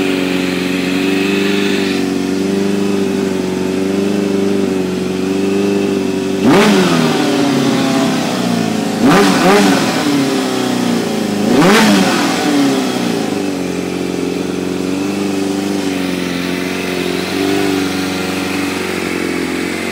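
Kawasaki Ninja ZX-7R's 750 cc inline-four idling steadily on freshly cleaned carburettors, with three quick throttle blips in the middle, each rising sharply and falling back to idle.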